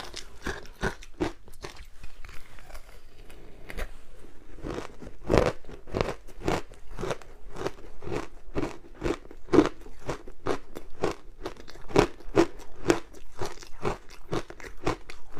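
Close-up crunching of frozen matcha ice being bitten and chewed, a quick run of sharp, cracking crunches that grows denser after a sparser first few seconds.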